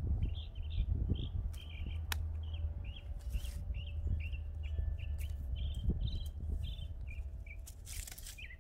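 A small bird chirping in a quick, steady series of short high chirps, about three a second, over a steady low rumble. A sharp click comes about two seconds in, and brief bursts of hiss come near the middle and near the end.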